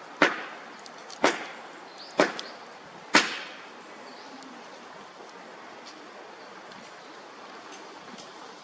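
Four sharp cracks about a second apart, the last one the loudest and trailing off briefly, then a steady low hiss.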